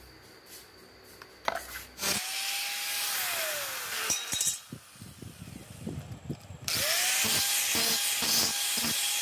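An electric power tool cutting or grinding in two runs. About two seconds in it starts with a steady whine and a harsh hiss, runs for about two seconds, and then winds down in pitch. A series of knocks follows, and near the seven-second mark the tool spins up again and keeps cutting steadily.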